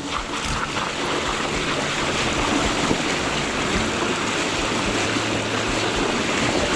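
Steady rushing of river water, a loud even noise with no clear rhythm or pitch.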